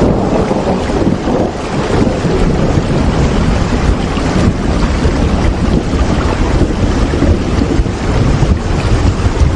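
Steady, heavy rain with a deep rumble beneath it, a constant wash of noise without pauses.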